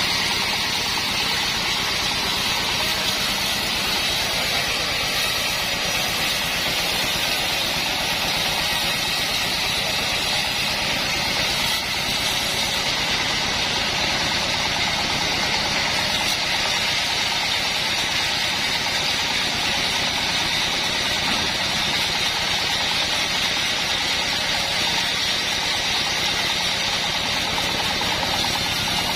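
Engine-driven band sawmill running steadily, an even mechanical noise with no breaks or changes.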